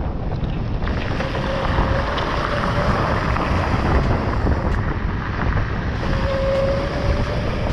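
Heavy wind buffeting the microphone while riding at speed on an electric dirt bike, with a faint high electric-motor whine that comes up twice.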